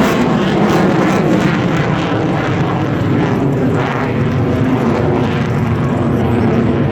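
Loud, steady engine noise of an aircraft flying past.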